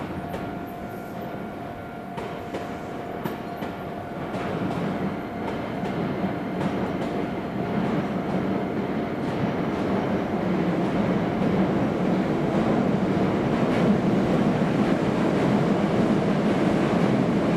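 Electric train running on the tracks, its wheel and running rumble growing steadily louder. A thin steady whine fades out in the first few seconds.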